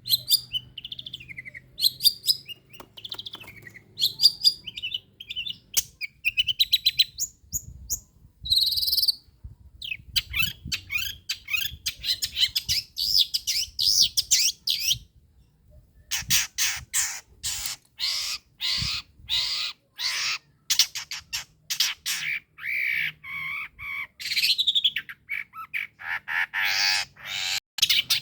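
Long-tailed shrike (pentet) singing: fast runs of sharp, repeated chirping notes mixed with varied whistles and harsher calls, with a couple of short pauses.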